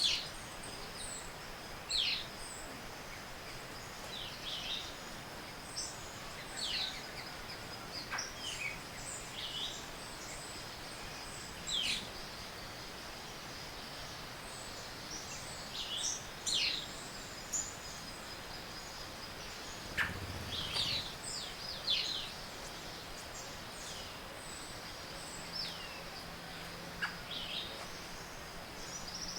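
Morning bird chorus in tropical forest: many short chirps and sweeping calls from several birds, over a steady high tone and a background hiss. About two thirds of the way through there is a brief low thud.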